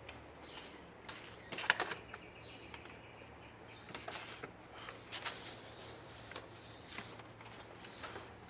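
Scattered light clicks and taps from hand work on parts and wiring, with a quick cluster of clicks a little under two seconds in.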